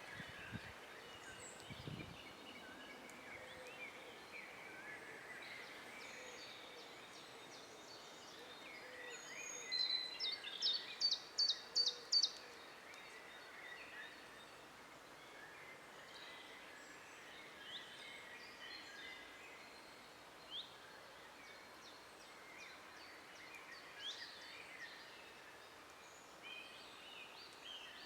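Several woodland birds singing and calling over a faint outdoor background. About ten seconds in, one bird gives a louder run of about six sharp, high repeated notes over a couple of seconds.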